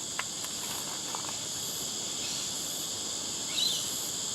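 Steady, high-pitched chorus of insects. A few faint clicks come in the first second, and a brief chirp a little before the end.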